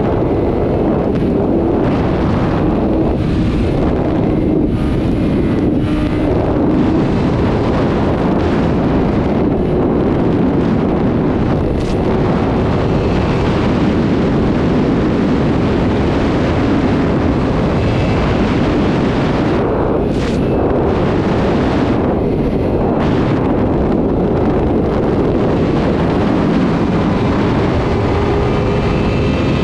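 Sport motorcycle running steadily at speed, its engine note under heavy wind rush on the microphone.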